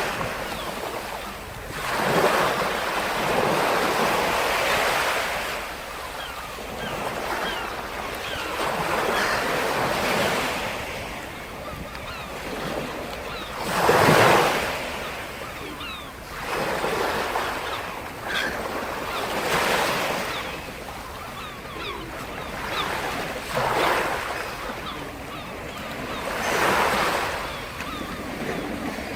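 Sea surf: waves breaking and washing up the shore one after another, each swell rising and falling away every few seconds, the largest break about halfway through, with fizzing backwash between breakers.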